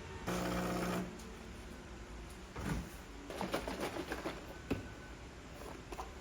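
A brief low buzz with a steady pitch lasting under a second near the start, then scattered light clicks and knocks of small objects being handled.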